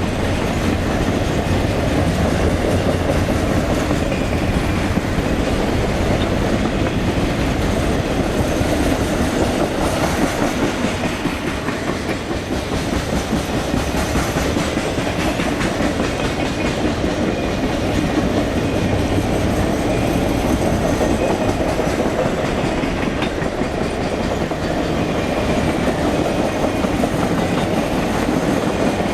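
Norfolk Southern Triple Crown RoadRailer train, highway trailers riding on rail bogies, running by steadily: wheels on the rails, with no horn and no let-up.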